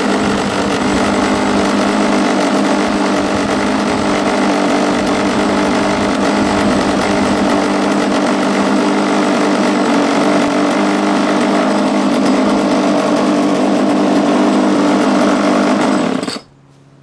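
25cc Ryobi strimmer engine in a scratch-built RC boat, running at a steady speed, then cutting off suddenly near the end.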